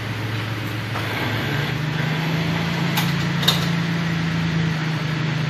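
Jeep Cherokee's engine running steadily under load as it crawls over rocks, its pitch stepping up about a second and a half in as the engine revs higher. Two sharp knocks come about three and three and a half seconds in.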